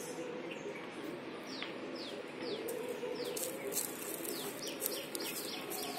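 A bird calling with short chirps that slide down in pitch, a few at first, then several a second in the second half.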